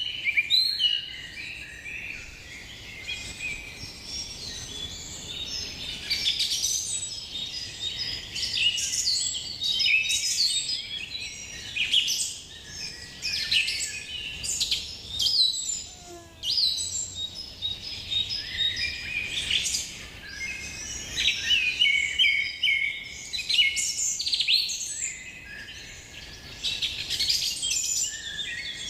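A chorus of many birds chirping and calling at once, quick overlapping chirps and trills that swell and ease off without a break.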